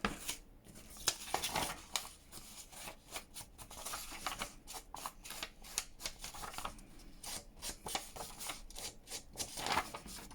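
Scratchy, irregular rubbing and rustling of paper worked by hand, with many short strokes, as ink is worked onto the edges of a journal page.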